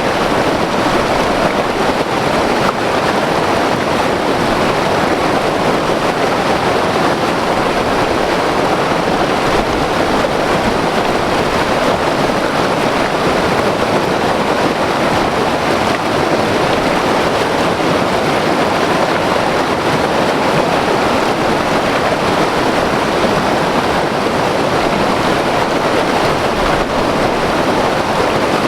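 White water river rushing over rocks: a loud, steady roar of turbulent water with no let-up.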